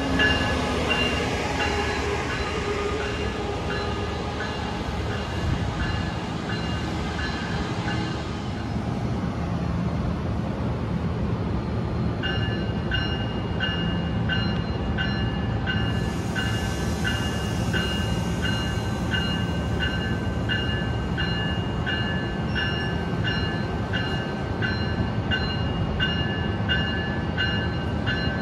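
A train moving at a station platform, its low rumble steady, with a bell ringing in an even rhythm of about one and a half strikes a second. The bell stops for a few seconds about a third of the way in, then starts again.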